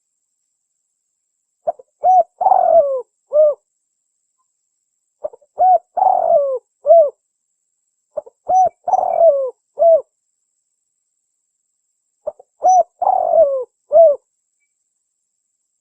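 Spotted dove cooing in four repeated phrases, one every three to four seconds. Each phrase is a few short coos and a longer coo that falls away at the end, the tekukur call used as a lure call, with dead silence between phrases.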